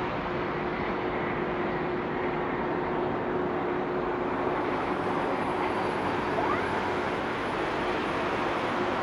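Boeing 747-400F jet engines running: a steady rush of jet noise with a held low hum, and a faint high whine coming in about halfway through.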